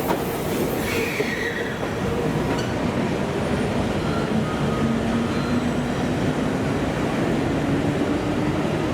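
A train running past close by: a steady, loud rumble of wheels on rail with a held tone that drifts slightly lower in pitch, and a brief falling squeal about a second in.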